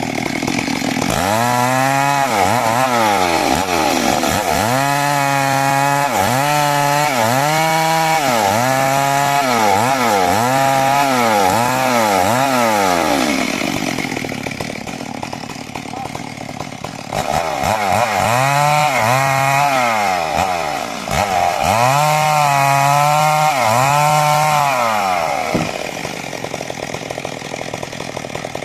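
Two-stroke chainsaw ripping timber into rafters, its engine pitch dipping and recovering about once a second as the chain bites in under load. There are two long stretches of cutting, with the saw dropping back to a lower, steadier run in between and near the end.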